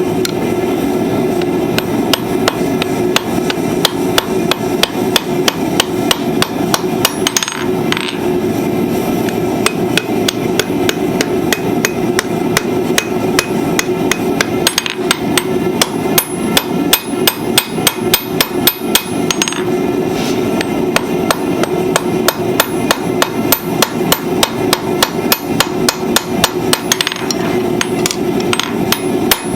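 Blacksmith's hammer striking hot steel on an anvil while forging flat-nib tongs: a long run of evenly paced ringing blows, about three a second, with a steady hum underneath.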